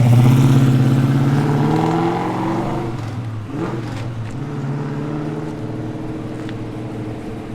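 Ford Falcon XY GT's V8 engine running as the car pulls away, loudest at first and fading over the first few seconds. There is a short rise in revs about three and a half seconds in, then a quieter steady engine note.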